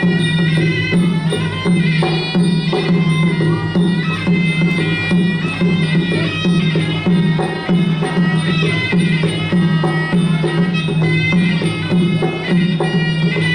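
Traditional Cambodian boxing music: a reedy sralai oboe playing a continuous wailing melody over a steady beat of skor hand drums.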